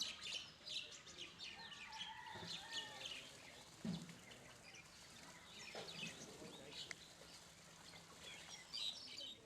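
Small birds chirping: many short, high calls in quick runs, with one brief low thump about four seconds in.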